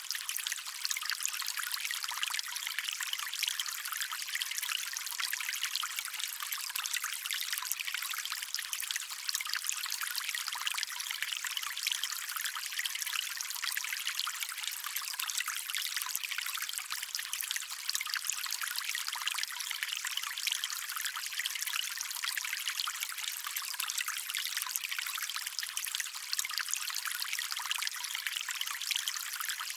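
Small stream trickling steadily over stones, a light, high splashing with almost no low rumble.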